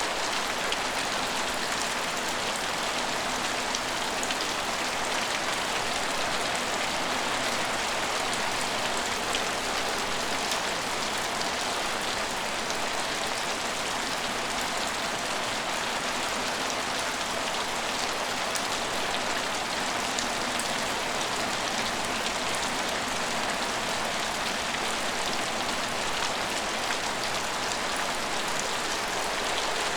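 Steady rain falling and pattering on station surfaces, an even hiss with fine scattered drop ticks and no single event standing out.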